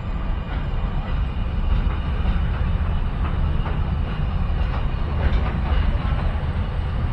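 Container freight train wagons rolling past close by: a steady low rumble of wheels on rail, with scattered wheel clicks over the rail joints.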